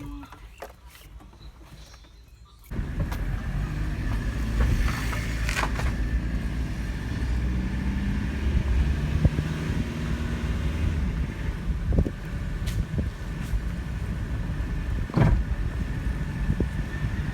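A motor vehicle running with a steady low rumble, starting suddenly about three seconds in after a quiet stretch, with a few sharp clicks and knocks over it.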